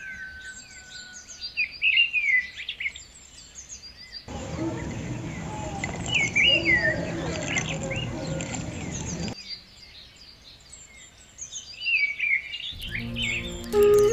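Small birds chirping and singing in short repeated calls, with a stretch of broad rushing background noise through the middle. Music comes in near the end.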